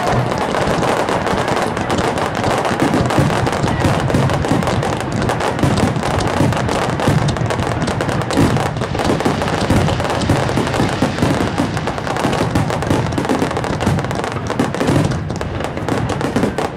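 A fireworks barrage: many aerial shells bursting in rapid succession with crackling, the reports running into one another in a continuous din.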